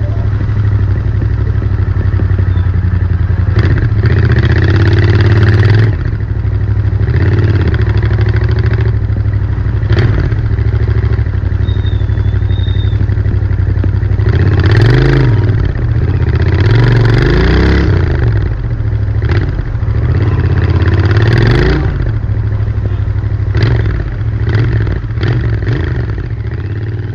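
Royal Enfield Interceptor 650's 648 cc parallel-twin engine running through its stock exhaust. The engine note rises and falls several times as the throttle is opened and closed, most clearly about halfway through.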